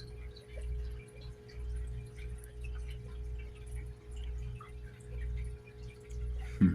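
Steady low hum with a faint constant tone running through it, and faint scattered ticks above it.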